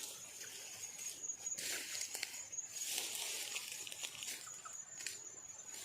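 Steady high-pitched insect trill, with two spells of rustling noise and a few faint short chirps.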